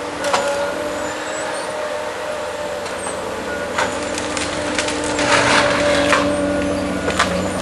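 Tree-felling harvester's engine running steadily under load, with several short hissing, crackling bursts over it.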